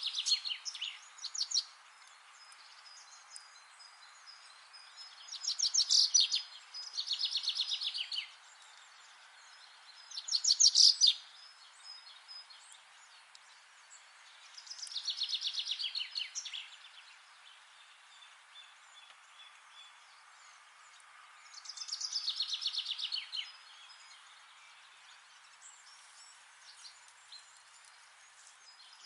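Songbirds singing short, rapid trilled phrases that repeat every few seconds, over a steady background hiss.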